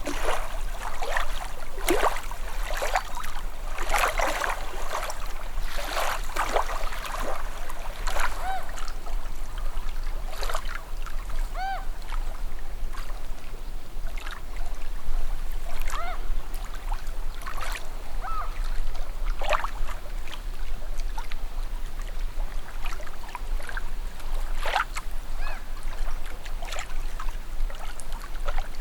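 Small waves lapping at a calm shoreline: a steady wash of water broken by irregular small splashes and gurgling plops.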